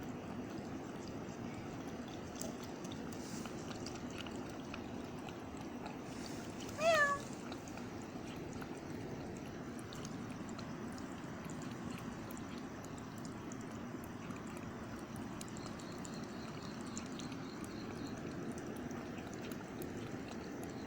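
A cat meows once, briefly, about seven seconds in, over a steady background hiss.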